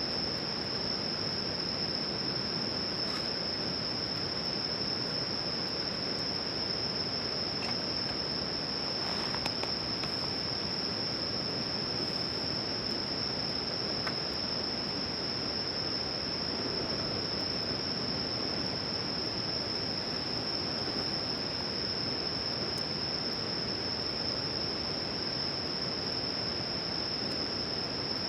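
Insects, likely crickets, singing one continuous high, steady trill over a low even hiss, with a few faint clicks.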